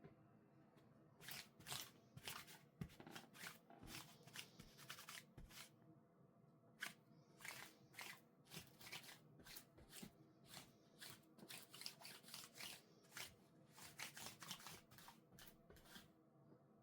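Faint rustling and swishing of clothes being handled and folded: a quick, irregular run of short brushing and flicking noises that starts about a second in and stops just before the end.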